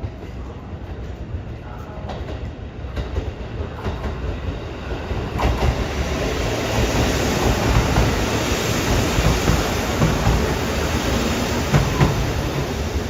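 Train running on the rails: a steady rumble and rail noise with faint clicks, growing louder about five seconds in.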